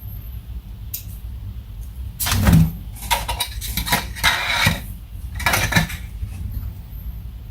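Scissors and double-sided tape being handled and cut: four short bursts of rustling and metallic clinking, the loudest about two seconds in, over a steady low hum.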